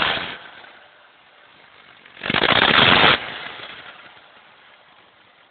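Volvo 240 engine firing roughly in a short, ragged burst of about a second, about two seconds in, then falling away without settling into an idle. The owner suspects a damaged or blown spark plug.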